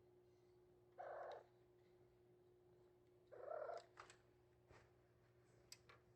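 Maine Coon kitten giving two short calls, one about a second in and one at about three and a half seconds, followed by a few faint clicks.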